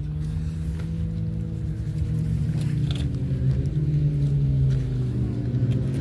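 An engine running steadily, its pitch drifting slowly up and down with no sharp pass-by sweeps.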